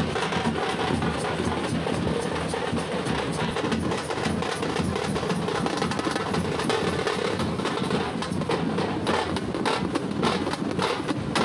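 Tamate frame drums beaten with sticks by a group of drummers, in a fast, continuous rhythm.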